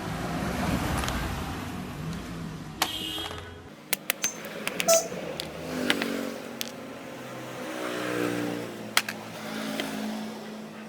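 Electric power tool's motor running in several swells, its pitch rising and falling with load, with a handful of sharp metal clicks and clinks in the middle.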